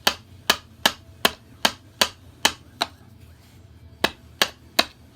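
Hammer striking nails into a birdhouse being built, steady blows about two or three a second, pausing for about a second midway and then resuming.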